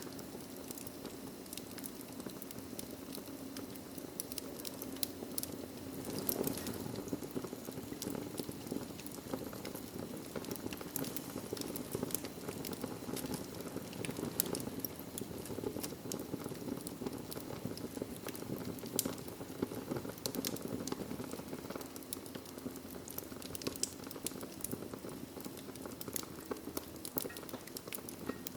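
Fireplace fire crackling, with frequent sharp pops and snaps over a steady low rush of flame.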